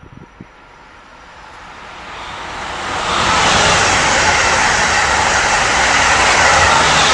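Amtrak passenger train passing at speed: a rushing noise swells over the first three seconds, then holds loud to the end.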